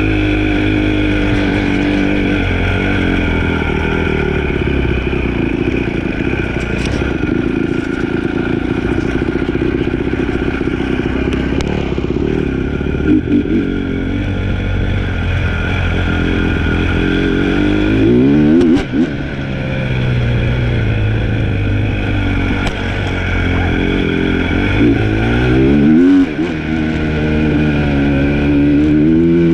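Dirt bike engine running while riding, holding steady revs for stretches and climbing in pitch twice, about two-thirds of the way through and again near the end, with a few sharp knocks over it.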